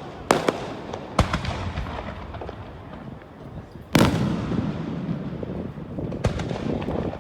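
Aerial fireworks display: four sharp booms of shells bursting, each trailing off in a rumbling echo, the loudest about four seconds in.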